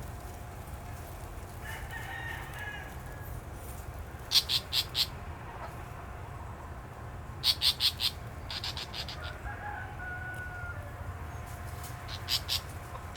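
Mother bird's sharp alarm calls in quick bursts of three or four notes, about four seconds in, again around eight seconds and near the end: she is scolding because someone is near her nest. A rooster crows faintly in the background.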